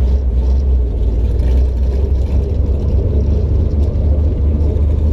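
Steady low engine rumble of a vehicle idling, with no revving.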